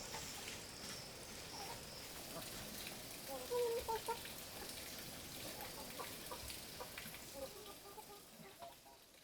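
Chickens clucking, the loudest calls about four seconds in, over a steady outdoor background. The sound fades out near the end.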